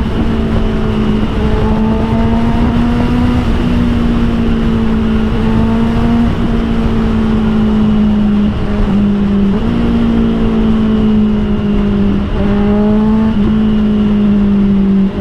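Honda CBR650R inline-four with an Austin Racing GP1R aftermarket exhaust, running at steady cruising revs on the move. The engine note holds nearly level, with a few brief dips as the throttle eases, over a heavy low rush of wind and road noise.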